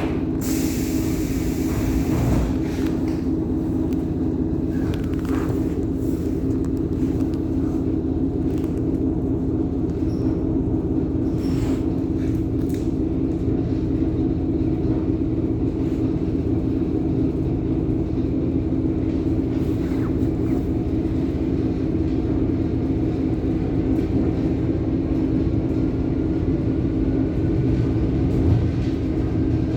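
ET2M electric multiple unit running along the line, a steady rumble with an even hum. A short hiss comes right at the start.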